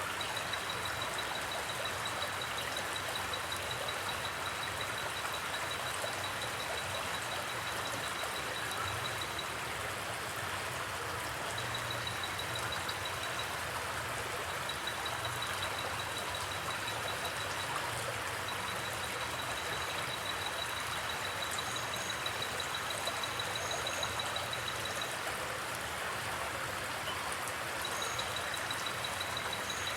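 Steady rushing of running water, an even hiss. A faint, rapidly pulsing high trill comes and goes over it, and a few short high chirps sound near the end.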